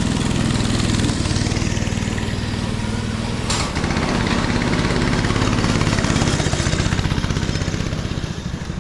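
Small go-kart engine running steadily at a low, even pitch, with a fast pulsing beat later on. A single sharp knock comes about three and a half seconds in.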